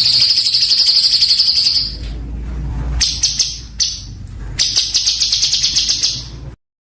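A songbird's harsh, rapid-fire rattling song of the kind called 'tembakan kasar': dense trains of high notes at about ten a second. One long burst is followed by a quieter stretch, then further bursts, and the sound cuts off abruptly near the end.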